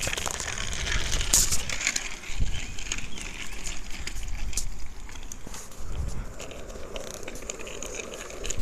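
Wind rumbling on the microphone and scattered clicks and rattles from a bicycle being ridden.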